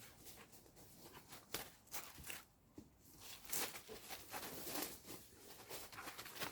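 Footsteps: a series of irregular soft steps.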